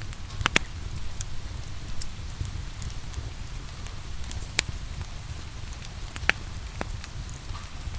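Log fire crackling, with a few sharp pops, over a steady low rumble and hiss of rain.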